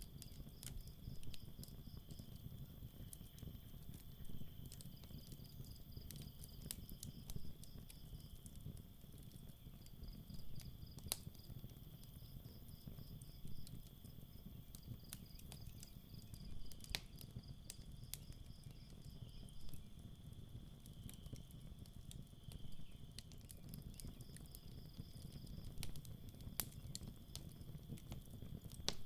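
Campfire crackling, with scattered sharp pops over a low steady rumble, while crickets chirp in rapid pulsed runs of a couple of seconds each and other night insects hum steadily.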